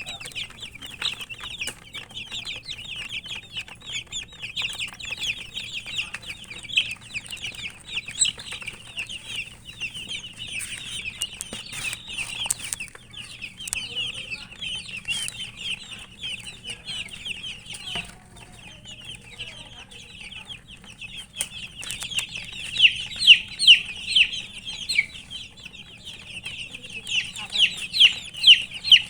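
A group of chicken chicks peeping continuously, many short high-pitched chirps overlapping. The peeping gets louder about two-thirds of the way through and again near the end.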